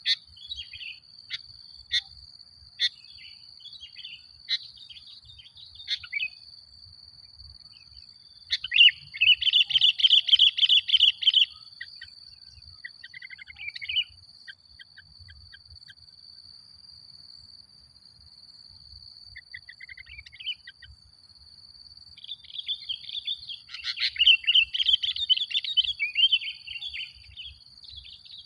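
Male sooty-headed bulbul singing vigorously: scattered short calls, then two long runs of rapid chattering song, the first about nine seconds in and the second from about twenty-two seconds. A steady high tone runs underneath.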